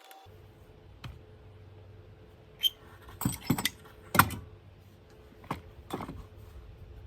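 Scattered clanks and clicks of tools and metal parts being handled at a workbench, about eight in all, the loudest about four seconds in. A steady low hum runs underneath.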